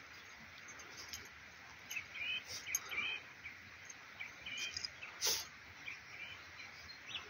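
Small birds chirping in short, scattered calls, over the scratching of a puppy's paws digging in dry, loose soil, with one louder sharp scrape about five seconds in.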